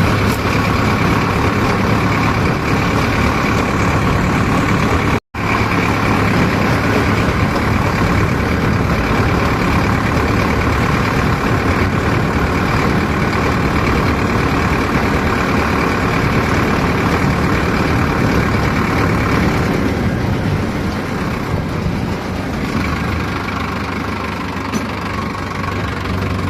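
Heavy diesel machinery engine running steadily. The sound cuts out for a split second about five seconds in, and eases slightly in the last few seconds.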